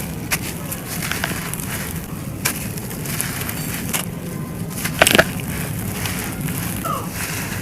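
Brittle dry chunks crumbling and crunching, with scattered crackles over a steady gritty rustle and one loud crunch about five seconds in.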